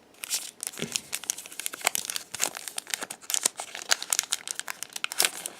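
Foil trading-card booster pack crinkling and tearing as it is opened by hand: dense, irregular crackling.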